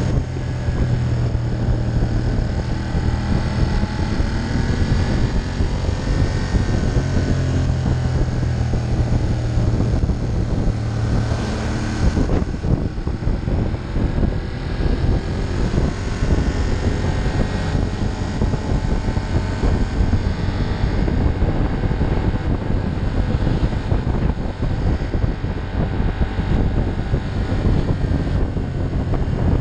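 Ducati Monster 1200's 1198 cc L-twin engine running steadily at road speed, with wind rushing over the microphone. About twelve seconds in, the steady engine note blurs under more wind and road noise, and it comes back clearly near the end.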